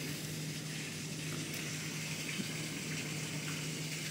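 Heavy thunderstorm rain pouring steadily and splashing into standing water on a flooded patio, with a steady low hum underneath.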